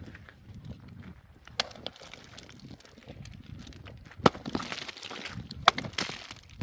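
A few sharp knocks or cracks: a lighter pair about one and a half to two seconds in, and two loud ones about four and five and a half seconds in, with rustling between the last two.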